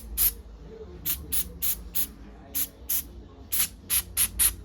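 Aerosol lubricant can giving about eleven short, sharp squirts in quick groups, spraying into stiff laptop screen hinges to loosen them.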